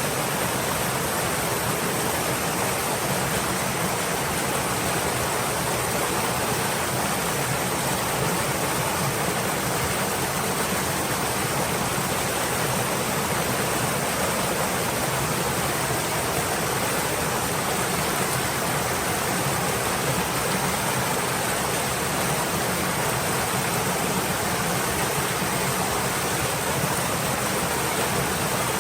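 Stream water flowing, a steady, even rush of noise.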